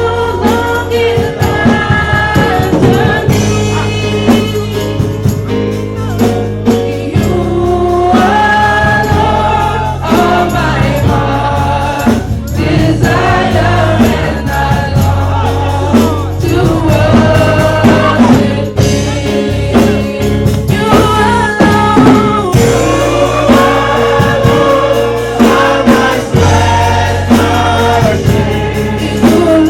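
Gospel choir and congregation singing over amplified band accompaniment with a strong bass line.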